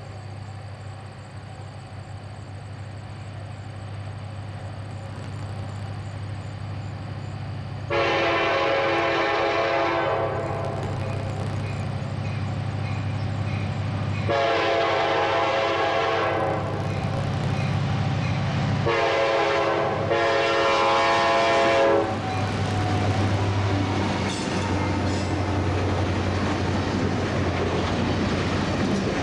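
CSX freight train's diesel locomotive approaching with a growing engine rumble, then sounding its multi-chime air horn in two long blasts, a short one and a long one: the grade-crossing signal. As the horn stops, the rushing, clattering noise of the cars' wheels on the rails builds.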